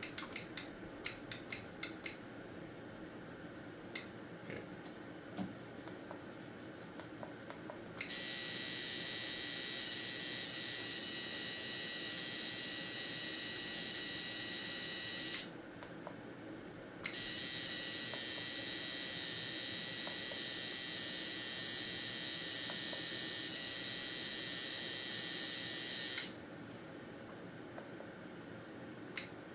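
Unloaded liner tattoo machine, with no needle, running off the power supply with a steady high-pitched buzz for about seven seconds, stopping briefly, then running again for about nine seconds. A few light clicks come before it starts.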